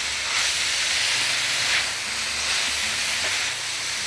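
Fresh spinach with chicken strips and sun-dried tomatoes sizzling in a hot skillet as it is tossed with a silicone spatula. A steady hiss that swells a few times as the leaves are turned.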